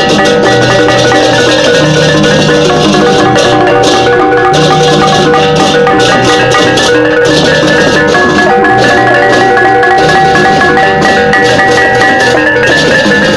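Balinese gamelan music: mallet-struck metal gong-chimes and metallophones playing dense, fast runs of ringing notes, with a crisp high clash of cymbals over them.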